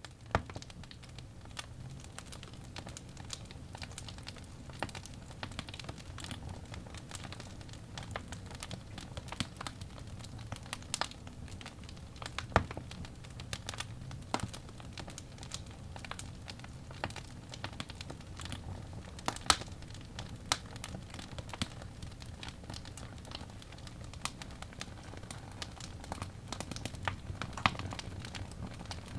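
Wood fire burning in a fireplace: a steady low rumble of the flames under irregular crackling, with a few sharper, louder pops of the burning logs.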